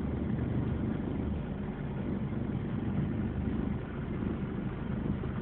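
Car engine running steadily with a low hum, heard from inside the cabin as the car drives straight ahead.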